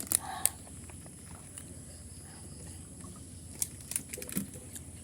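Close-miked eating sounds: chewing and wet mouth smacks of someone eating pork curry, with a few sharp clicks near the start and again around the middle.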